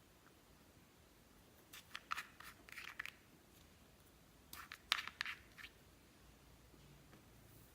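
Clear slime being worked and mixed, giving short sticky clicks and pops in two bursts, the first about two seconds in and the second about five seconds in.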